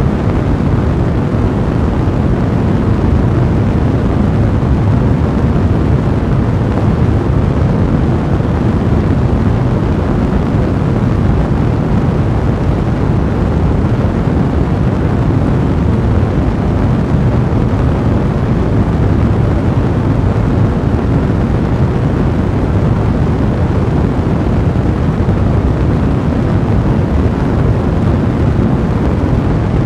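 Fire blazing in a fireplace: a loud, steady, low-pitched rush of noise with crackling.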